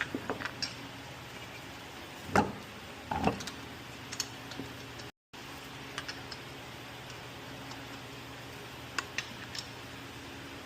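Light metallic clicks and two louder clunks, about two and three seconds in, over a steady low hum: a wheel being refitted to the hub and its lug nuts started by hand.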